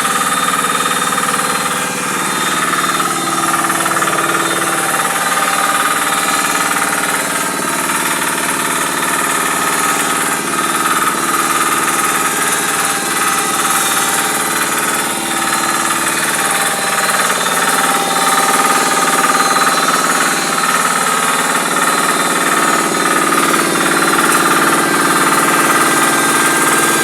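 Crushing mill for making fish-pellet feed, running loud and steady with a dense grinding noise over its motor's hum; the tone shifts about seventeen seconds in.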